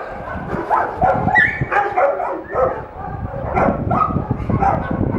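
Dogs barking and yipping in a rapid run of short calls, several a second, over a low rumble.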